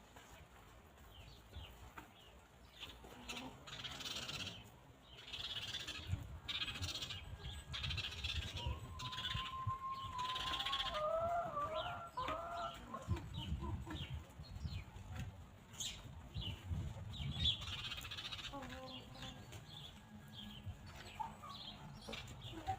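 Free-range hens pecking and scratching at grass, with short clicks and rustles and soft clucking. A wavering, drawn-out call comes in the middle, over a low rumble of wind on the microphone.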